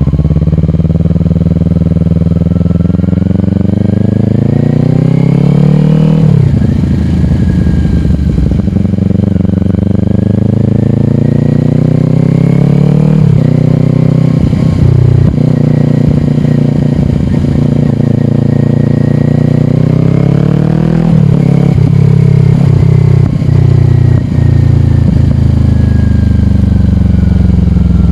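Kawasaki Ninja 400 parallel-twin with a slip-on exhaust accelerating. The engine note climbs steadily and drops sharply as it shifts up, about 6 and 13 seconds in. It then goes through a few short throttle changes and settles into a steady run that falls slowly in pitch near the end.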